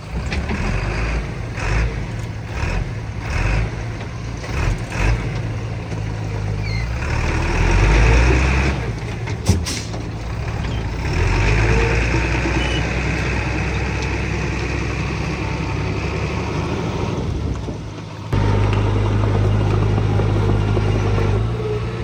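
Diesel engines of heavy earthmoving machinery, bulldozer and dump trucks, running under load, with a single sharp knock about nine and a half seconds in. The engine sound changes abruptly about eighteen seconds in.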